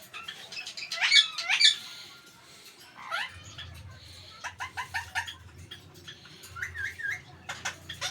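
Parrot calls: two loud rising squawks about a second in, then a run of short quick chirps and a few wavering calls, over a low steady hum that starts about three seconds in.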